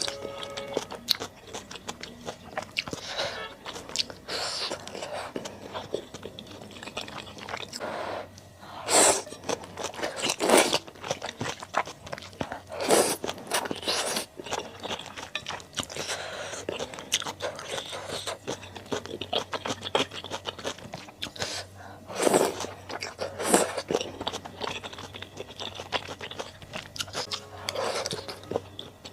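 Close-miked eating sounds of malatang: steady chewing and crunching, with a handful of louder bites scattered through.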